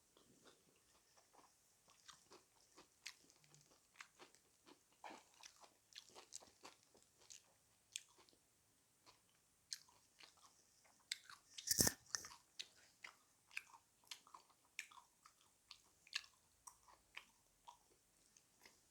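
Close-up chewing and crunching of crispy KFC fried chicken, a string of short crisp crunches with one loud bite about twelve seconds in.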